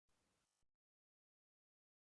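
Near silence. A very faint, brief noise comes in the first moment, then cuts off.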